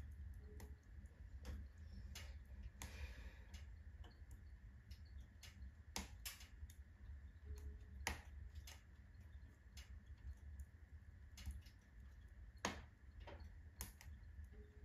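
Wood fire in a stove crackling faintly, with irregular sharp pops and snaps roughly once a second over a low steady rumble.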